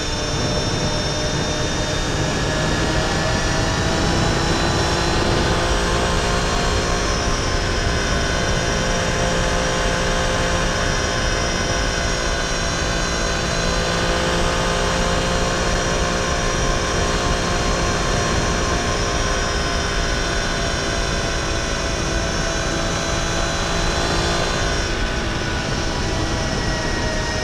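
Triumph Tiger Sport 800's three-cylinder engine pulling at a steady cruising speed, over heavy wind and road rush. The engine note drifts slowly up and down, with a brief change near the end.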